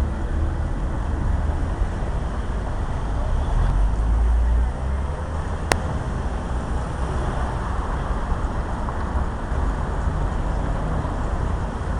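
Low, steady rumble of a motor vehicle's engine, a little louder about four seconds in, with one sharp click about halfway through.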